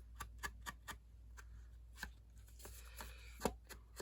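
Ink applicator dabbed along paper edges to distress them: a run of light, irregular taps, one louder tap about three and a half seconds in.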